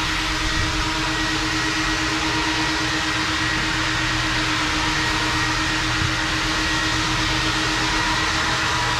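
Automatic car wash equipment running: a steady rushing noise with a constant hum underneath.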